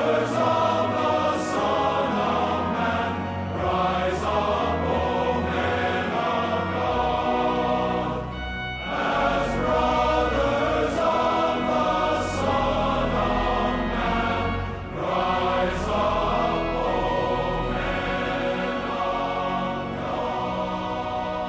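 A choir singing a slow hymn with instrumental accompaniment, in sustained phrases.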